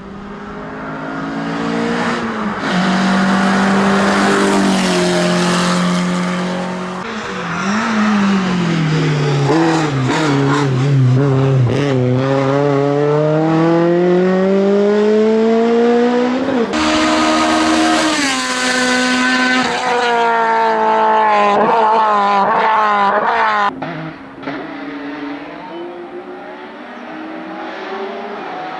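Hillclimb race car engine at hard throttle: it holds a steady note, dips and wobbles as the car slows for a corner, then climbs steadily in pitch, drops sharply at a gear change and screams high and bright as it passes close by. About three-quarters of the way through it falls away suddenly to a quieter, lower engine note.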